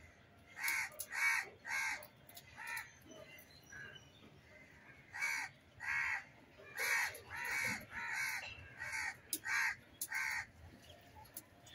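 A bird giving short calls over and over, about fourteen in two runs: the first run starts just under a second in, the second about five seconds in.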